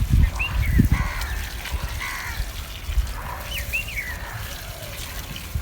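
Farm poultry calling: a few short, harsh calls and several brief high chirps that dip in pitch, over low knocks and bumps.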